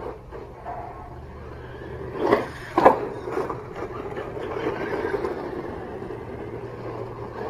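HSP Brontosaurus 1/10 RC monster truck driving over rough ground, a continuous rushing noise, with two sharp loud knocks a little past two seconds in.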